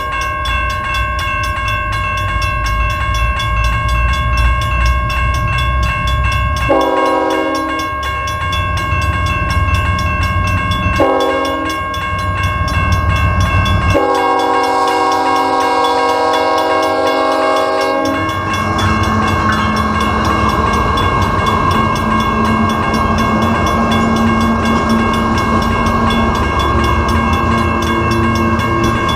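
BNSF ES44AC diesel locomotive sounding its horn: a short blast about a quarter of the way in, another just before the middle, then a long blast of about four seconds, over the low rumble of the engine. A steady high ringing tone runs underneath, and after the long blast the freight train rolls by with steady wheel and rail noise.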